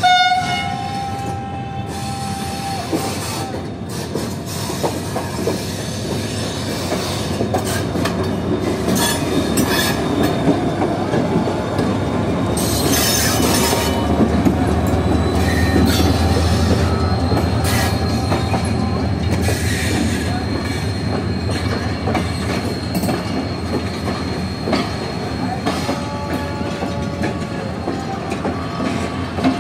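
Pakistan Railways diesel-electric locomotive and passenger coaches passing close by. A horn note ends in the first couple of seconds, and the engine rumble is loudest about halfway through as the locomotive goes past. Wheels clack over the rail joints throughout, and a steady high wheel squeal runs through the second half as the coaches roll by.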